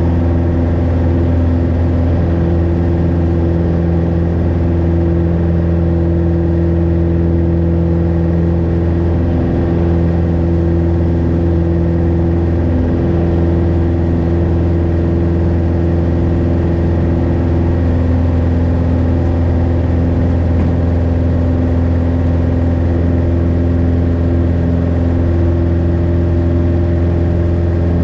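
Light aircraft's piston engine running steadily, a constant low drone with overtones that holds its pitch throughout.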